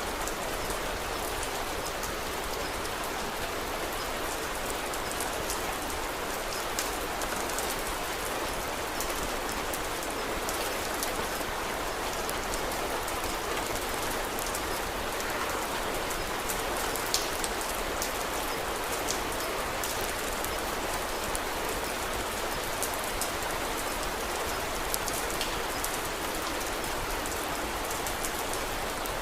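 Steady rain falling, with scattered sharp crackles from a wood fire; one crackle a little louder just past the middle.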